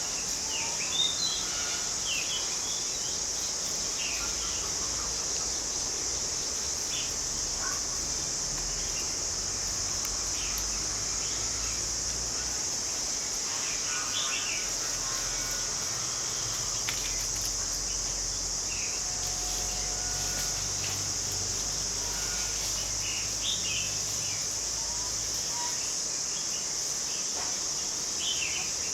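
A steady, high-pitched insect drone, like crickets or cicadas, runs throughout, with short bird chirps breaking in every few seconds.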